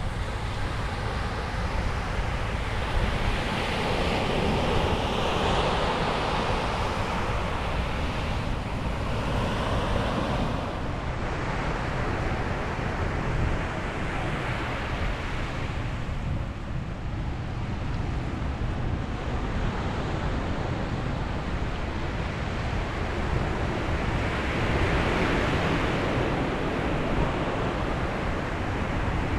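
Ocean waves breaking on a beach, a steady surf wash that swells as each wave breaks, a few seconds in, around ten seconds in and near the end. Wind rumbles on the microphone underneath.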